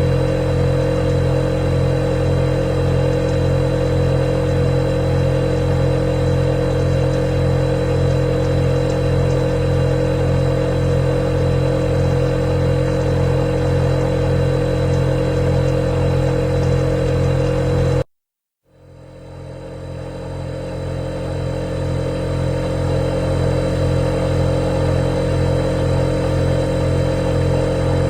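Refrigerator running: a steady hum made of several constant tones, with a thin high tone above it. About eighteen seconds in it cuts out abruptly for about half a second, then fades back up to full level over a few seconds.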